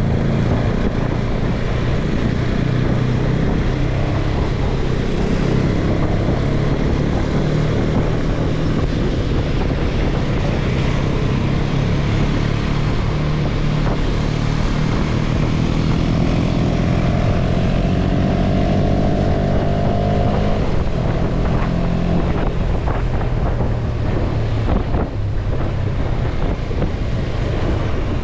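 Motorcycle engine running under way, with wind buffeting the microphone. The engine note climbs from about 16 s to about 20 s, then drops back.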